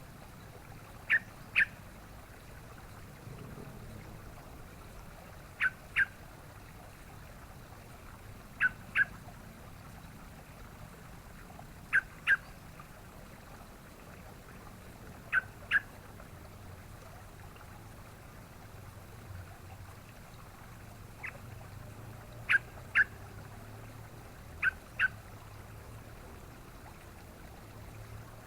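Yellow-vented bulbul (trucukan) giving short, sharp double call notes, a pair about every three seconds, with one single note partway through, over a faint steady background hiss.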